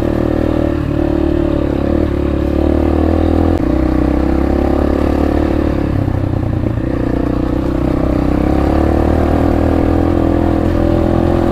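Motorcycle engine running steadily while riding, its pitch shifting a couple of times with throttle or gear changes.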